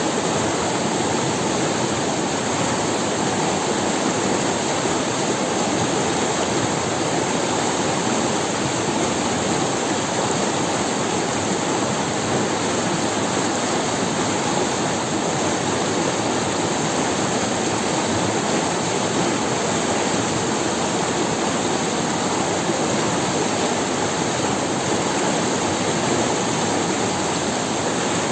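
River water running over stones in a forest valley: a steady, even rushing with no pauses or breaks.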